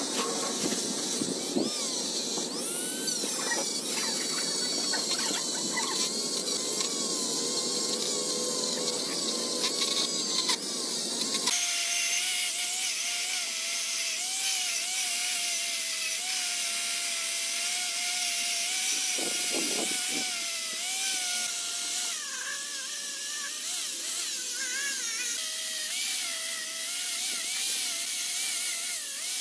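Electric power tool running with a whine that wavers in pitch. The sound changes abruptly about eleven seconds in, to a thinner, higher whine with less low rumble.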